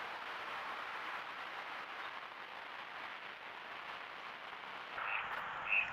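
Steady faint hiss of outdoor background noise. Near the end it brightens a little, with two brief high blips.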